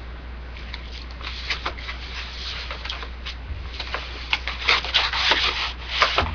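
Scissors and hands working at a box's packaging: irregular scraping, rustling and crinkling, sparse at first and busier and louder in the second half.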